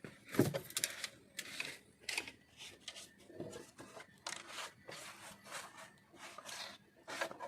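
Irregular clicks, taps and rustling of small parts being handled, as a paint spray gun is taken from its box and put together. There is no steady motor sound, so the compressor is not running.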